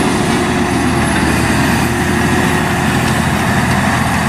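Massey Ferguson 7718 tractor's diesel engine running steadily under load while it pulls a disc cultivator.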